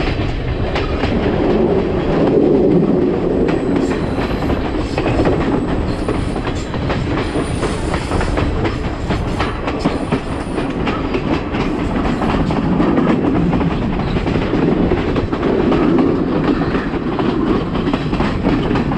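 Train running along the track: a steady rumble with the wheels clicking over rail joints in a continuous clickety-clack.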